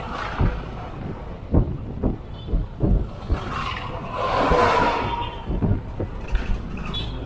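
A vehicle in motion: a steady low rumble with irregular knocks and jolts. A louder swell builds about four seconds in and fades by about five.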